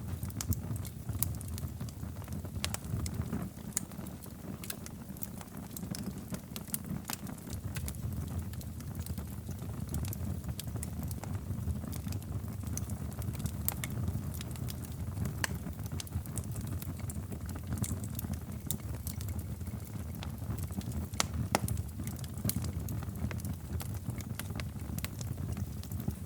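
Wood fire burning in a fireplace: a low steady rumble of flames with irregular sharp crackles and pops from the burning logs.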